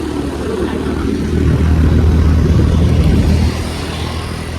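A road vehicle running with a low rumble. It grows louder about a second and a half in and eases off about a second before the end.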